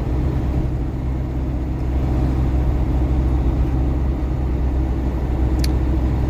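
Inside the cab of a GAZon Next truck on the move: steady diesel engine drone and road noise. A single short click sounds about five and a half seconds in.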